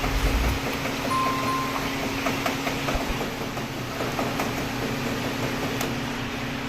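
Steady machinery hum in a broiler house: a constant low drone over a broad hiss, scattered with many small clicks and taps.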